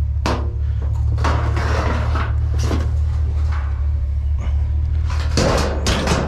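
A truck engine idling steadily under a series of clunks and knocks from objects being handled and moved. The loudest cluster of clatter comes about five and a half seconds in.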